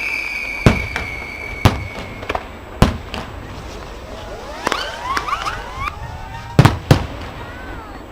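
Aerial fireworks: sharp bangs of shells bursting, five in all, the last two close together near the end. A falling whistle fades out in the first two seconds, and a burst of short whistling effects sounds in the middle.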